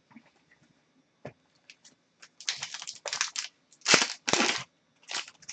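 Trading cards and their packaging being handled: a few light clicks, then bursts of rustling and crinkling, loudest about four seconds in.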